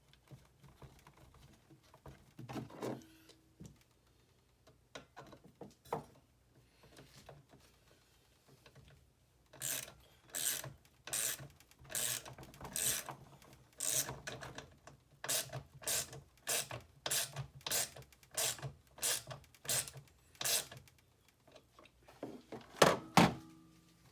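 Repeated scraping strokes of hand work, evenly spaced at about one and a half a second, starting about halfway in after a few scattered knocks, with a louder clatter near the end.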